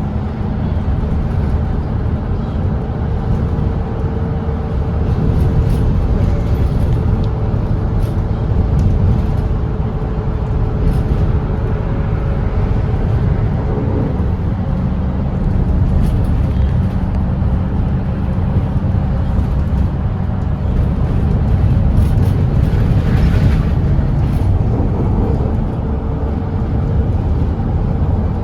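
Volvo B8RLE double-decker diesel bus running at highway speed: a steady six-cylinder diesel engine note over road and tyre rumble. The engine tone shifts about halfway through.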